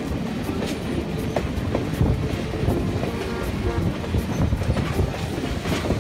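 Heritage passenger train rolling along the track: a steady wheel rumble with irregular clicks as the wheels pass over rail joints.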